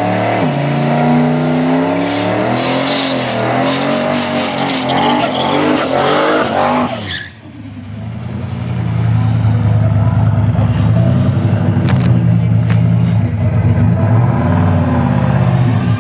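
Ford Mustang engine revving through a drag-strip burnout with the rear tyres squealing, then, after a brief drop about seven seconds in, the engine running at a steady low rumble as the car rolls up to stage.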